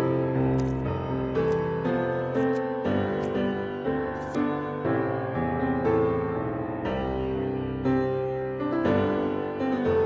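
Piano music, with new notes struck about once or twice a second.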